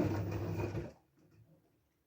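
LG F12A8ND front-loading washing machine running its wash programme: a steady low motor hum with the drum and laundry tumbling. It cuts off about a second in, leaving silence.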